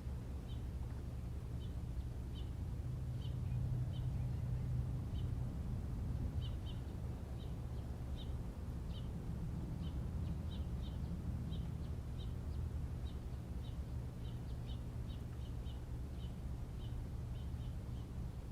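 A small bird chirping over and over: short, high chirps, often in quick pairs, coming irregularly through the whole stretch. Under them runs a steady low rumble.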